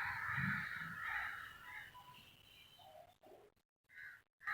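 Many crows cawing together, dying away after about two seconds, with a single short caw near the end. The filmer takes the calling as a sign of alarm.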